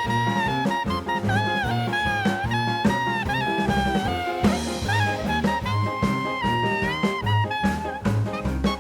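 Background music: upbeat jazz with a horn melody over a bass line and drums.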